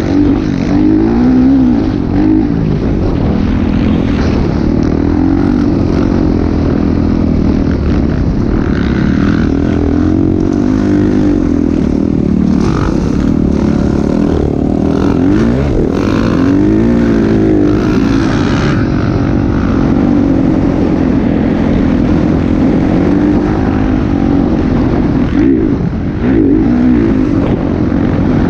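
Motocross dirt bike engine running hard, its pitch rising and falling again and again as it revs up and drops back.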